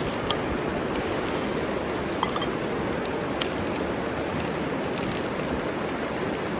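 Steady rushing of a flowing river, with a few light clicks and clinks in the first half.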